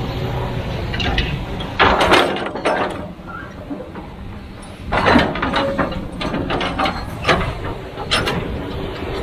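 Kobelco SK200-10 excavator at work: its diesel engine running steadily under a series of mechanical clanks, knocks and scrapes, the loudest about two seconds in and about five seconds in.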